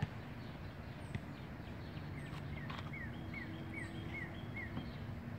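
Outdoor ambience with a bird calling a run of about six short, down-slurred notes through the middle, over faint, very high chirps that repeat every second or so and a few light knocks.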